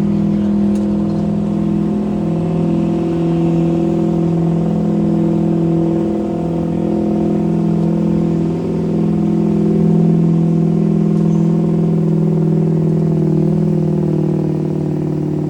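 Pulling vehicle's engine running hard at high, nearly steady revs, with a couple of brief dips in pitch.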